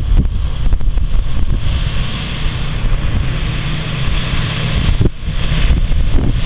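International DT466 diesel engine of a school bus running, with wind buffeting the microphone.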